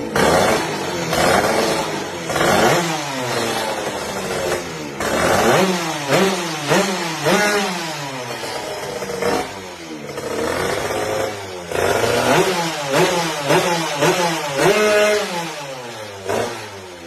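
Two-stroke motorcycle engine, a Kawasaki Ninja engine block swapped into a Honda Nova Dash, revved over and over: quick blips and longer pulls that rise and fall sharply in pitch, settling back toward idle near the end.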